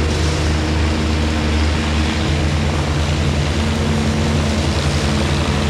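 Oliver 77 tractor's six-cylinder engine running loudly and steadily, its note shifting a little about two seconds in.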